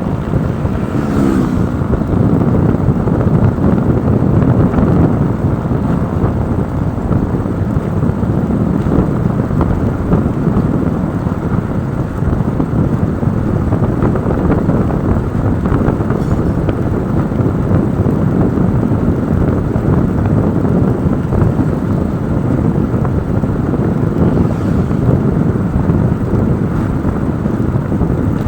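Steady wind buffeting on the microphone mixed with motorcycle engine and road noise, as when riding along.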